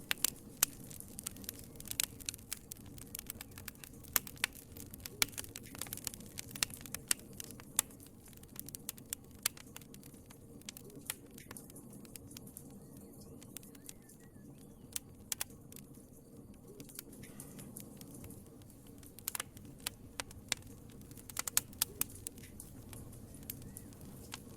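Fire in a fireplace crackling: irregular sharp pops and snaps over a low steady rumble, busier in the first few seconds and again near the end, sparser in the middle.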